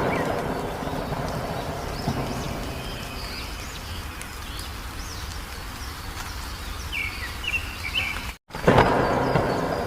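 Small birds chirping over a steady rain-like hiss, with faint high calls at first and a quick run of chirps near the end. Just before the end the sound cuts out for a moment and a loud swell of noise comes in and slowly fades.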